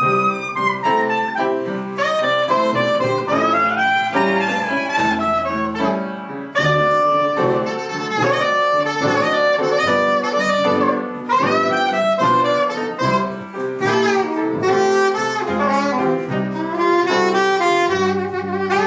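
Live blues band playing an instrumental passage, with a saxophone leading the melody.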